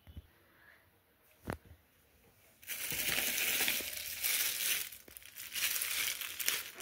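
A plastic bag crinkling and rustling loudly as it is handled, starting about two and a half seconds in after two soft knocks.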